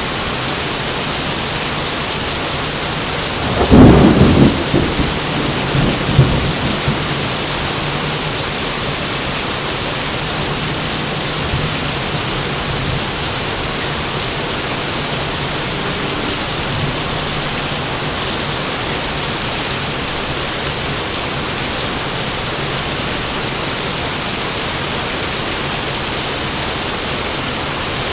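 Heavy rain falling steadily, with a sharp thunderclap about four seconds in that rumbles on for a few seconds before dying away.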